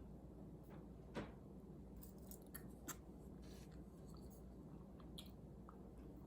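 Faint eating sounds: quiet chewing with a few small, scattered clicks and taps, the strongest about a second in and a cluster a second or so later.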